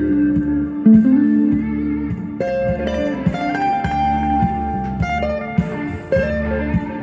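Electric guitar playing an instrumental lead line of held, singing notes with small pitch bends, over a steady backing accompaniment.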